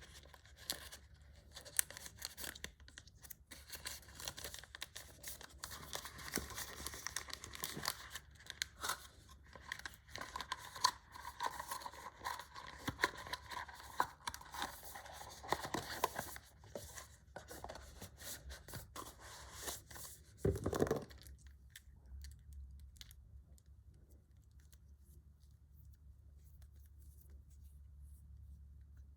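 Product packaging being opened and handled by hand: tearing, rustling and scraping with scattered sharp clicks. About twenty seconds in it stops, leaving only a faint low hum.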